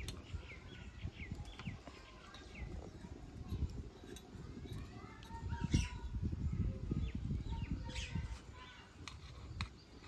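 Small birds chirping: a quick run of short falling chirps in the first couple of seconds and a few longer calls in the middle. Under them run soft low thumps and rustles of hands working food in steel bowls and plates.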